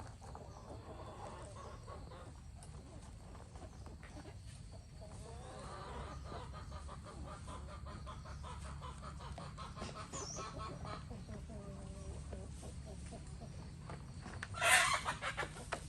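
Chickens clucking, their wavering calls coming and going over a steady low rumble, with one short, louder burst near the end.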